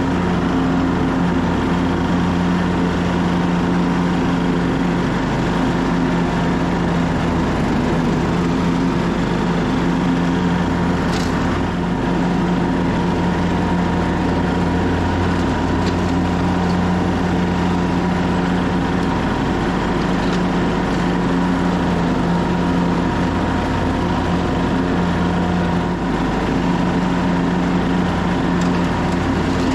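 Engine of a 2014 Craftsman T1600 lawn tractor running steadily while mowing with the deck blades engaged.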